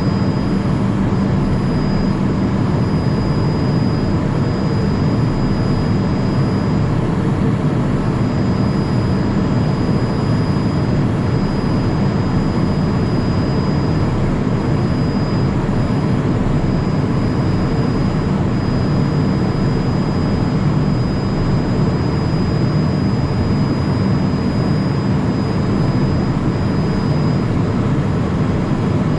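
Steady cabin noise of a Cessna Citation Mustang twin-turbofan business jet, a constant low rush of engine and airflow with a thin high whine that drops in and out.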